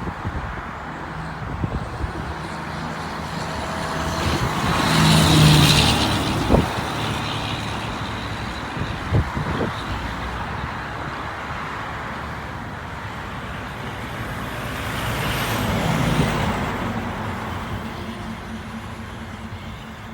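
Road traffic with two vehicles passing, one peaking about five seconds in and another about sixteen seconds in, each rising and fading away, over a steady background of traffic noise.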